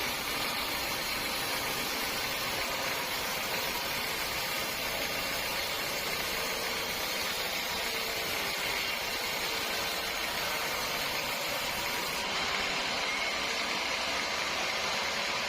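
Steady machine noise from a running motor or engine, an even hiss with a faint hum in it; the highest part of the hiss drops away about twelve seconds in.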